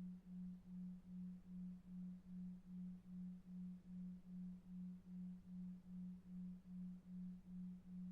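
Low, soft sleep tone pulsing evenly about two and a half times a second (a 2.5 Hz delta-wave pulse), over faint brown noise.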